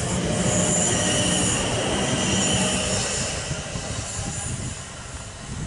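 South Western Railway electric multiple unit running along the platform and away: the wheels rumble on the rails under a steady high-pitched squeal, and both fade over the last couple of seconds as the rear of the train draws away.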